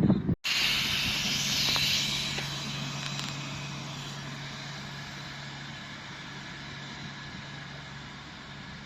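SA133 diesel railcar running by: a steady low engine drone under a rushing noise of wheels and air. The rush is strongest a second or two in, then slowly fades away.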